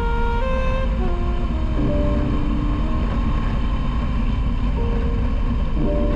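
The steady rumble of a motorcycle ride, engine and wind together, under background music whose melody steps from note to note.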